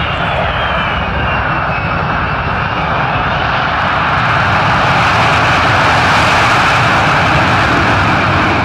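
Boeing C-17 Globemaster III's turbofan jet engines running in reverse thrust as the jet backs up: a loud steady jet roar, with a high turbine whine that drops in pitch over the first few seconds and then climbs again, the roar growing a little louder in the second half.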